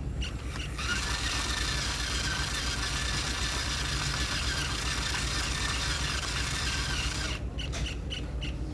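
A small motor running with a steady hissing whir over a low hum; the whir starts about a second in and cuts off about a second before the end.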